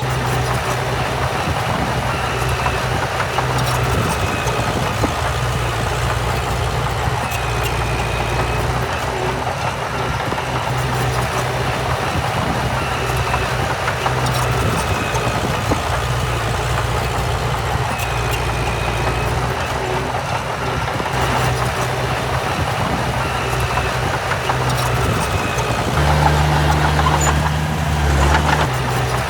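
Heavy diesel engine of earthmoving machinery running steadily, with a faint high squeal recurring every three to four seconds. The engine gets louder for about two seconds near the end.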